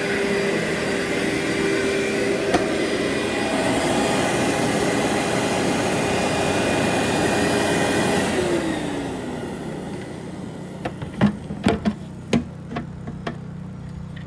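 Workhorse vacuum cleaner running steadily, then switched off about eight and a half seconds in, its motor winding down in a falling whine. Several sharp knocks and clicks follow near the end.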